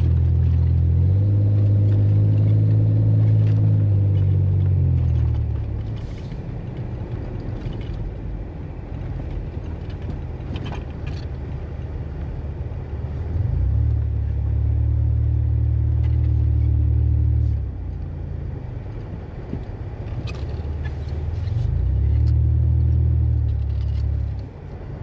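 A vehicle engine running under load, a low droning rumble that swells loud three times and eases back between.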